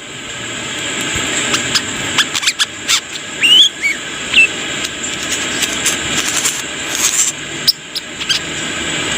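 Brown-throated sunbird (kolibri kelapa) singing in quick sharp chirps and clicks over a steady hiss, with a few short rising whistled notes a little before the middle.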